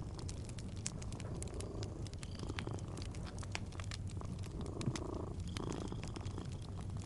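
Cat purring steadily in a low rumble, with fireplace crackle: many small sharp pops and snaps scattered over it.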